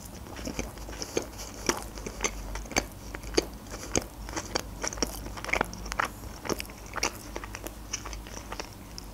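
Close-miked chewing of a mouthful of McChicken burger, with short wet mouth clicks and smacks at about two a second.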